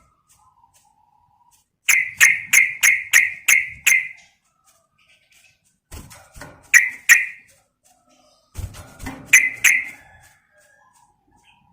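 Yellow-vented bulbul (trucukan) calling: a quick run of about seven sharp whistled notes, then two short groups of two or three notes a few seconds apart. The call is offered as a female's call to draw in a male.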